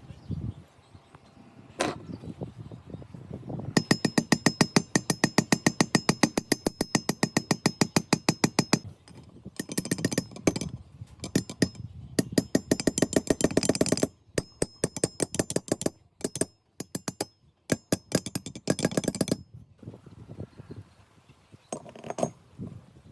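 Rapid metallic clicking from a hand tool working on metal parts, about ten clicks a second with a ringing edge: one long run of about five seconds, then several shorter bursts.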